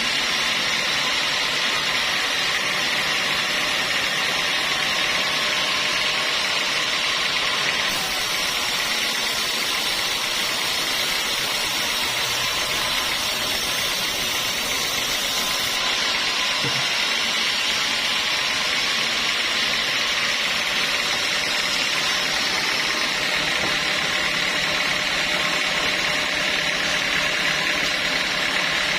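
Sawmill saw running steadily, a continuous even mechanical noise; a brighter hiss joins for several seconds partway through.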